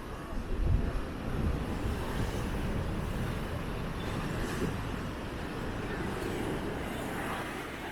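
Strong wind buffeting the microphone over the steady rush of rough sea at high tide, gusting harder in the first couple of seconds.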